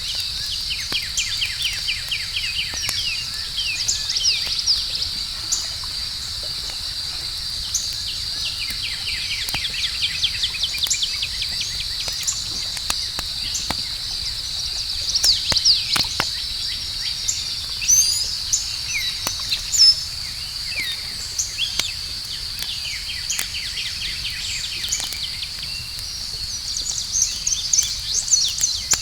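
Outdoor campfire night ambience: a steady high trill of crickets, with birds chirping in quick runs of calls several times, and scattered sharp crackles and pops from the burning fire.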